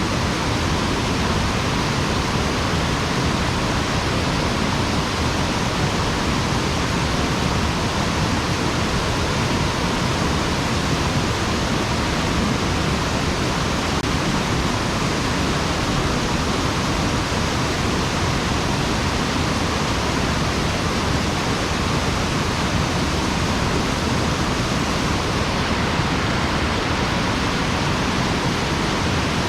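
Steady, unbroken rush of a mountain stream's water falling over a sabo (erosion-control) dam.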